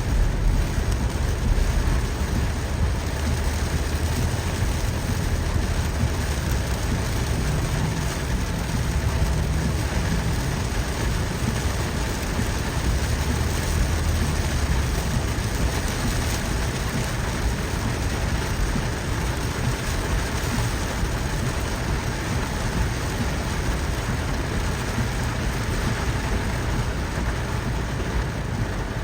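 Steady rain falling, an even hiss of drops with a low rumble underneath, strongest in about the first half.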